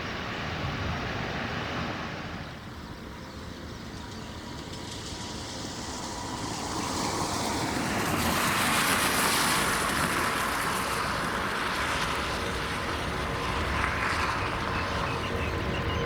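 Airbus A350-900 jet engines (Rolls-Royce Trent XWB turbofans) at takeoff power, the engine noise dipping briefly about two and a half seconds in, then growing steadily louder from about six seconds in and staying loud with a high whine over a wide rushing hiss.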